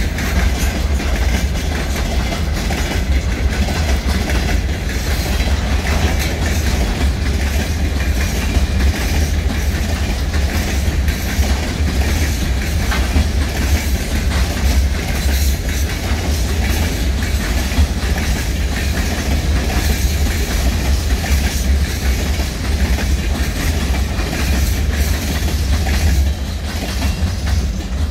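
Freight train of open gondola wagons rolling past: a steady heavy rumble with the clatter of wagon wheels on the rails, easing a little near the end as the last wagons go by.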